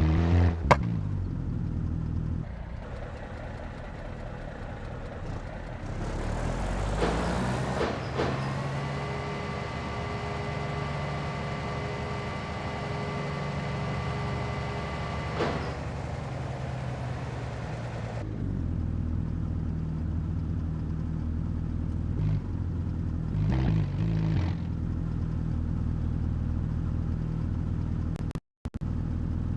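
Tow truck engine running steadily. From about six to eighteen seconds in, a steady mechanical whine with a hiss joins it while the race car is being loaded.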